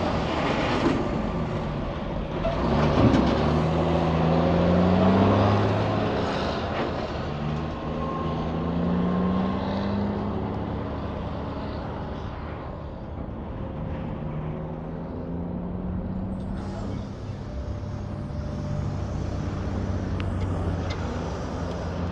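Big trucks driving past on a highway, their diesel engines rising and falling in pitch as they go by. The loudest pass comes a few seconds in and another about nine seconds in, then traffic noise settles into a quieter steady drone.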